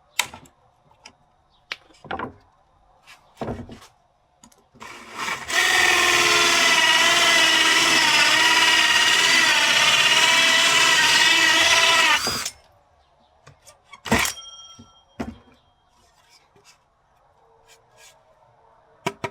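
An electric drill runs steadily for about seven seconds, its pitch wavering slightly under load. Sharp knocks of wood or tools come before and after it.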